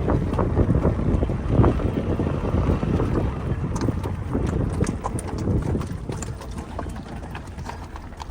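Strong wind buffeting the microphone in a loud low rumble, easing off over the second half. Scattered short clicks come through as the wind drops.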